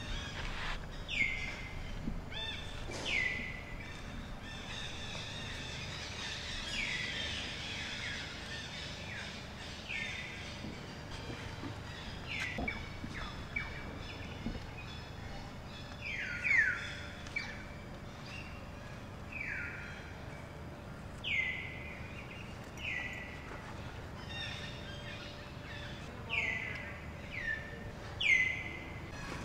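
A bird calling again and again: about fifteen short, high chirps, each falling in pitch, spaced irregularly a second or two apart over steady outdoor background noise.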